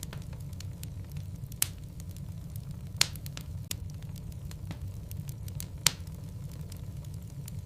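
Wood logs burning in a fireplace: a steady low rumble of flames with scattered small crackles. Three louder pops come about one and a half, three and six seconds in.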